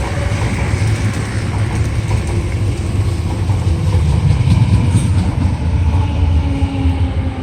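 An MTR East Rail Line R-train, a Hyundai Rotem electric multiple unit, running along the station platform with a steady heavy rumble. A faint motor tone comes in toward the end.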